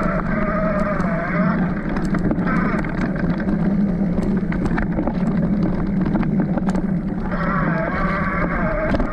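Electric mountain bike ridden over a rough track: steady wind rumble on the microphone with frequent rattles and knocks from the bike, and a wavering whine that fades in and out, near the start and again for the last second and a half.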